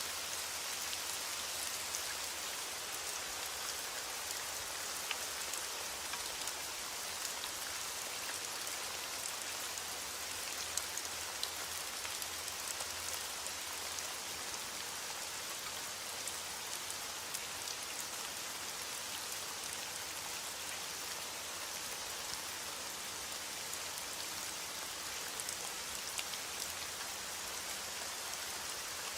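Steady rain falling, an even hiss dotted with many small drop ticks; no thunder is heard.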